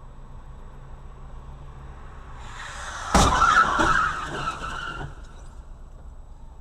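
A car crash recorded from a dashcam: tyres skid for under a second, then a loud sudden impact about three seconds in, followed by about two seconds of crunching and scraping before the road noise returns.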